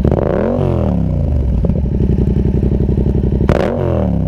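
Yamaha MT-07's parallel-twin engine idling with a deep, throaty note through an SC Project Conic 2-in-1 exhaust with the baffle out, blipped twice: a quick rev at the start and another about three and a half seconds in, each dropping straight back to idle.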